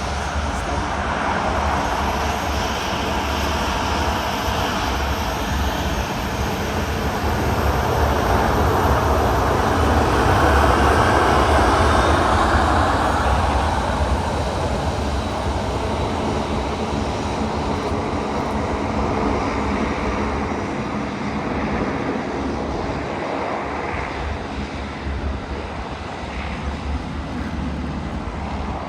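Jet airliner engines at take-off power, a continuous roar that swells to its loudest about ten seconds in and then slowly fades as the aircraft departs.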